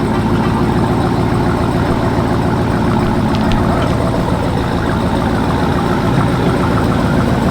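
A car engine idling steadily close by, a deep, even running note.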